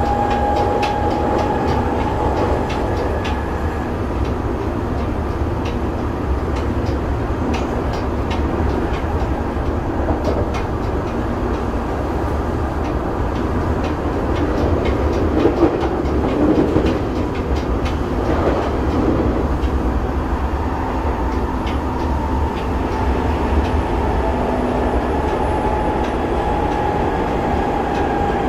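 Onboard running sound of a Tokyo Metro 7000 series electric train with Mitsubishi IGBT-VVVF drive, heard from inside the car: a steady rumble of wheels on rail with some rail-joint clicks. A faint motor whine comes in at the start and again in the last few seconds.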